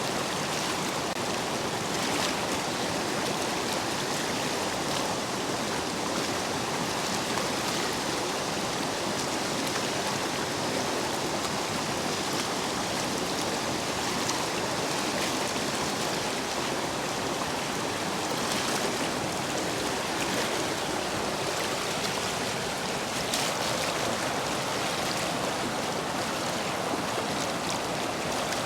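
Stream water rushing steadily over and between stepping stones, running high after heavy rain, with small splashes now and then.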